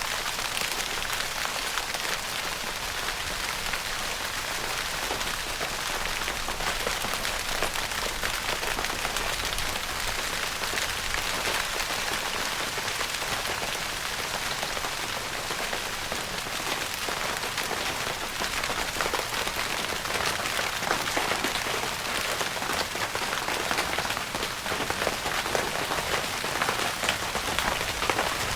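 Steady rain pattering on a tent's fabric roof, heard from inside the tent: a dense hiss made of many close, individual drop taps.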